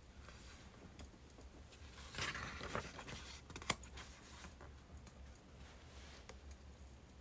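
Faint birch-wood fire crackling, with scattered sharp pops, a denser run of crackle about two seconds in and one louder pop a little later.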